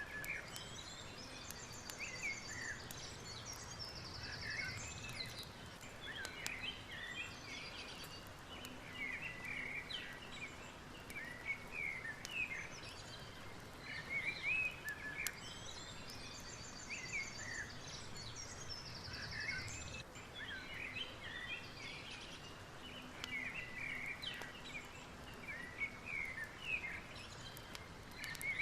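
Several birds chirping and giving short rapid trills over a steady background hiss, with faint scattered clicks.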